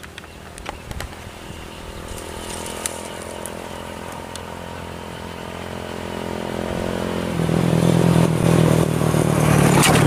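A small petrol engine running at a steady pitch, growing louder and stepping up sharply in level about three-quarters of the way through.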